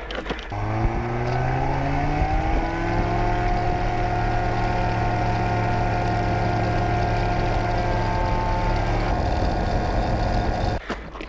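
Light aircraft piston engine and propeller spooling up to full takeoff power, rising in pitch for a couple of seconds and then holding a steady drone.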